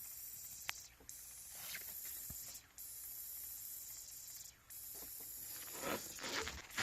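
Steady high-pitched hiss of fuel escaping from a leaking high-pressure fuel pump on an Audi 4.2 V8, cutting out briefly a few times. A few light clicks and some handling rustle come near the end.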